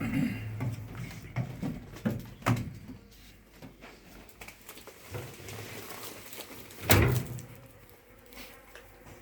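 Scattered knocks and handling noises, with one loud thump about seven seconds in.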